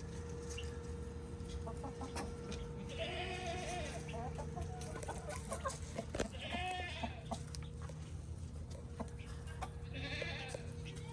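A few drawn-out animal calls, each about a second long and arching up and down in pitch, with scattered short clicks, over a steady hum.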